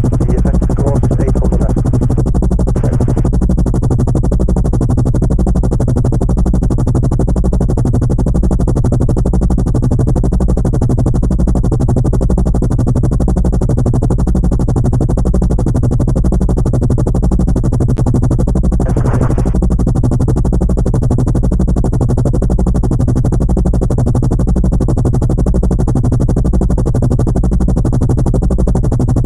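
Steady synthesized low drone with an even, repeating throb, an aircraft-cockpit engine sound added over the drone's flight.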